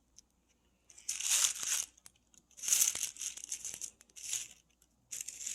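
Several short bursts of rustling, crinkling noise, each lasting up to about a second.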